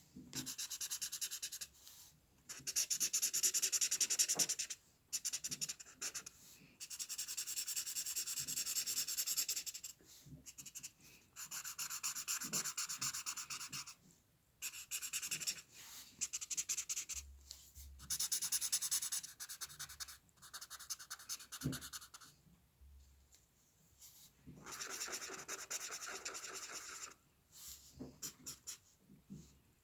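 Hand drawing on paper: a drawing tool scratching in quick repeated strokes, in bursts of one to three seconds with short pauses between them.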